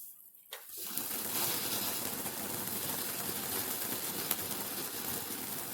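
A lit firework spraying sparks, starting about a second in with a steady hiss full of fine rapid crackles.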